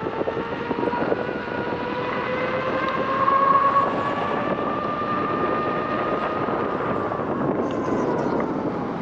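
Electric unicycle hub motor whining steadily while riding, its pitch rising slightly and then easing off near the end, over wind and road noise.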